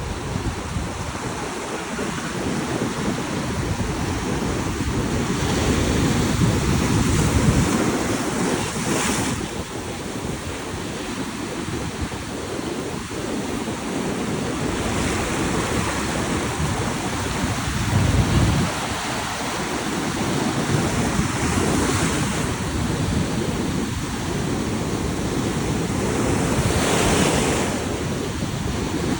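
Ocean surf: waves breaking and washing up the shore, swelling in loudness every few seconds, with wind buffeting the microphone.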